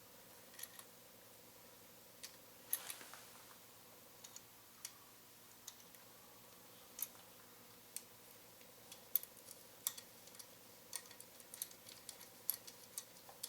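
Light, irregular clicks and taps of a hand tool on metal as a nut on a motorcycle's rear brake pedal assembly is worked loose, the clicks coming more often in the second half.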